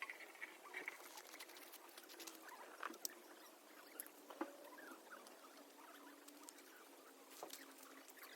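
Small wood campfire crackling faintly, with irregular pops and ticks.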